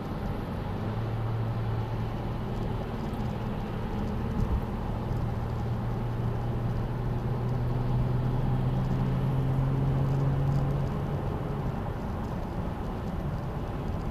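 Car engine and road noise while driving, the engine note rising slowly for about ten seconds, then easing off.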